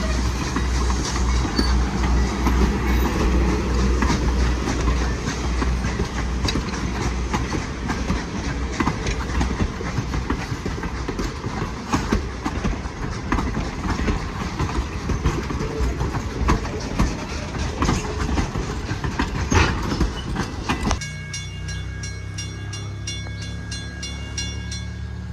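A train passing close by, its wheels clicking and clacking over rail joints. About 21 seconds in, the sound cuts off suddenly and gives way to a quieter, steadier hum with a few held tones.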